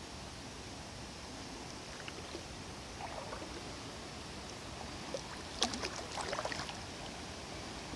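Kayak paddle splashing and dripping in river water, with a short cluster of splashes about five and a half to six and a half seconds in, the loudest part.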